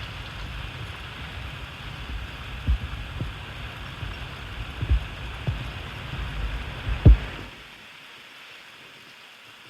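Wind on the microphone and water moving around a canoe, with several dull low knocks, the loudest about seven seconds in. The rumble cuts out abruptly soon after, leaving a faint hiss.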